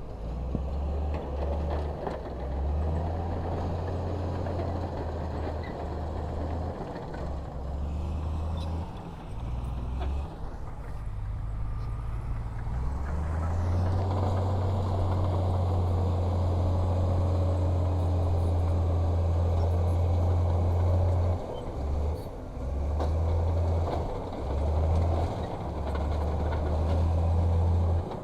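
Heavy diesel earthmoving machinery running: a low engine rumble that rises and falls with the work, held steady and strongest through the middle of the stretch.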